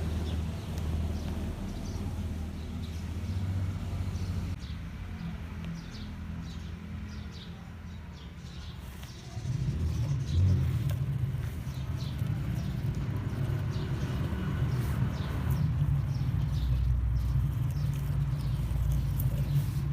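Off-road vehicle engine running with a steady low rumble, getting louder and heavier about halfway through as it pulls harder, with faint scattered clicks over it.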